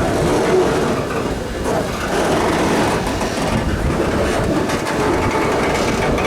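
Canadian Pacific freight train rolling slowly past: a steady rumble of wheels and cars on the rails, with some clicking.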